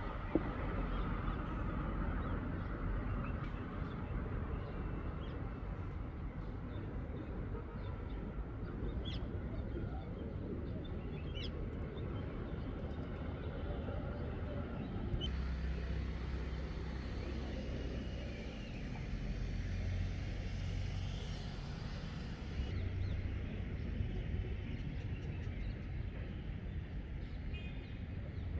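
Outdoor ambience: a steady low rumble, with a few faint short chirps about a third of the way in.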